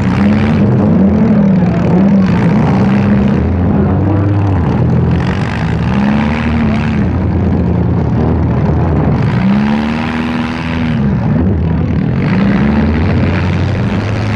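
Several demolition derby cars' engines running loudly, revving up and dropping back over and over as the cars drive and ram each other.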